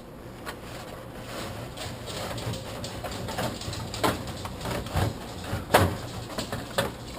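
Aluminium beer cans knocking and rolling as a 30-pack is emptied into a refrigerator, with a scatter of knocks that grow louder in the second half.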